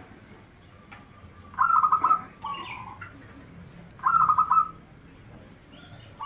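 Zebra dove (perkutut) cooing: two phrases, each a quick run of pulsed notes, about two and a half seconds apart, the first ending in a lower drawn-out note.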